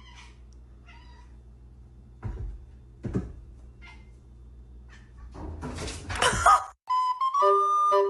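A domestic cat meowing faintly, with two thumps, then a loud, harsh noisy burst lasting about a second; a flute melody starts near the end.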